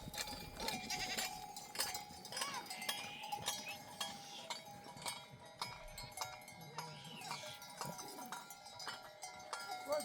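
Sheep bells clinking and ringing continuously across a grazing flock, with sheep bleating now and then.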